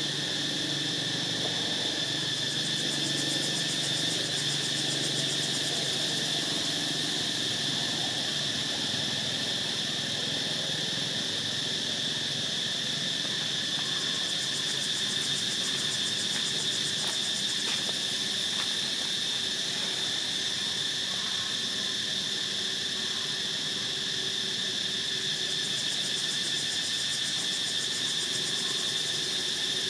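Steady insect chorus, a continuous high-pitched drone that holds unchanged throughout.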